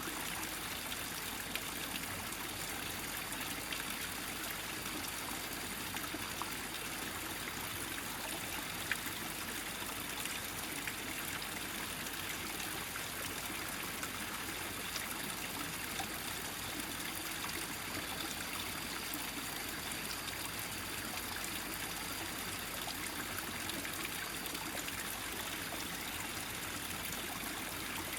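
Small mountain stream running steadily over rocks in a single gathered flow, with a light trickling sound.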